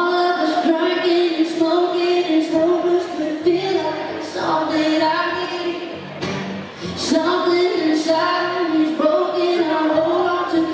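Live country music: a voice sings long held notes over the band's accompaniment.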